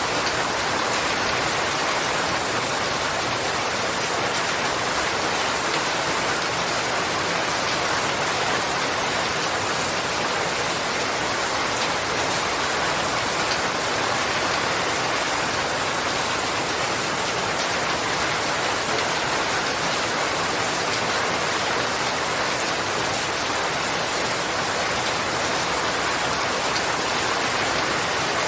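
Steady heavy rain falling, an even dense hiss of drops with no let-up or change.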